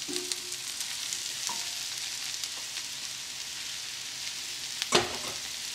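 Sliced onions and mushrooms frying in butter in a frying pan: a steady sizzle as the sliced mushrooms are tipped in and stirred with a wooden spoon. A sharp knock about five seconds in.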